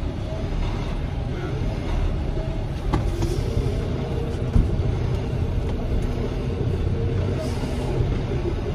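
Semi truck's diesel engine running steadily at low speed while the rig reverses, a low rumble, with a single brief knock about halfway through.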